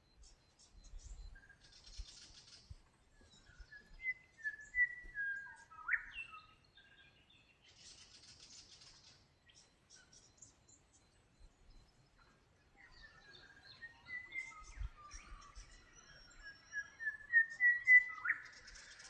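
Birds singing: a run of short whistled notes ending in a sharp upward sweep about six seconds in, then a longer run of notes that speeds up and ends in the same sharp sweep near the end. Short patches of higher-pitched chirping come in between.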